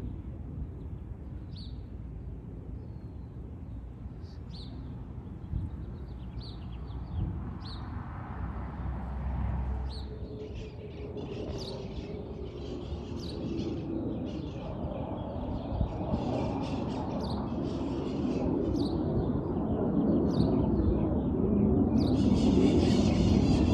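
Small birds chirping in short repeated calls over a low aircraft rumble that grows steadily louder as the plane approaches.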